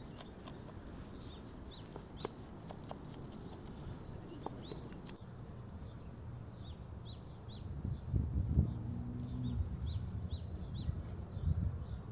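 Small birds chirping outdoors, a quick series of short high chirps repeating again and again. About two thirds of the way in, a louder low rumble with dull thumps joins them.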